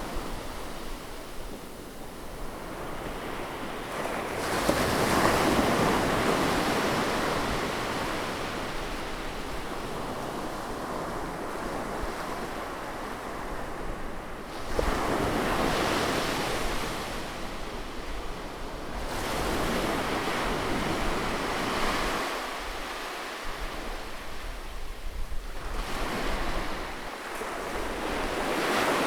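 Sea waves breaking and washing in, with a loud surge every five to ten seconds, over a low wind rumble on the microphone.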